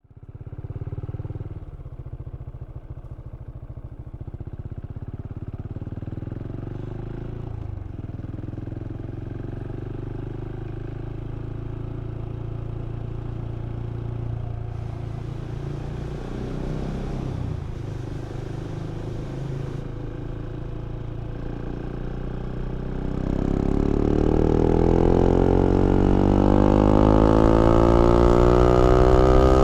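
KTM 690 Duke's single-cylinder LC4 engine running at steady low revs, then accelerating hard for the last six seconds or so, getting louder as its pitch climbs.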